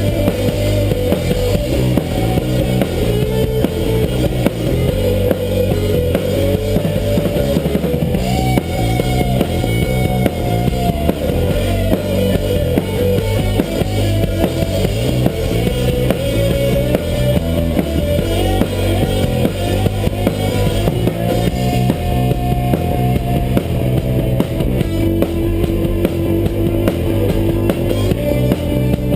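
Live rock band playing an instrumental passage: a drum kit keeping a steady beat under bass and guitar, with a gliding melody line on top.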